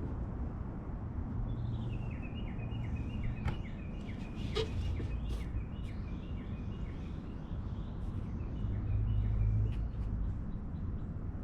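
A bird chirping in a quick run of short repeated notes lasting several seconds, over a steady low rumble, with a couple of sharp clicks a few seconds in.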